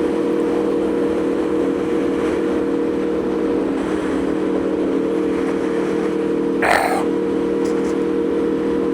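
Aprilia Tuono V4's V4 engine running at a steady speed while cruising, its pitch holding even, under a constant rush of wind noise. A short burst of noise cuts in briefly about seven seconds in.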